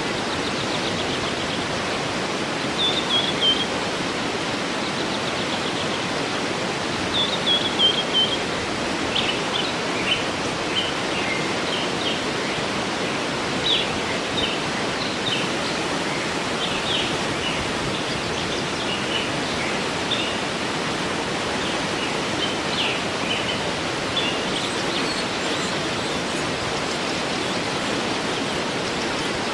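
Waterfall rushing steadily, with birds singing over it: a short falling trill about three seconds in and again near eight seconds, then a run of quick chirps through the middle of the stretch.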